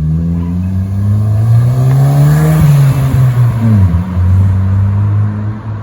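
Toyota Corolla 1.2T's four-cylinder turbo engine with an aftermarket exhaust, heard from inside the cabin while driving: the revs climb for about two and a half seconds under acceleration, fall away over the next second or so, then hold steady.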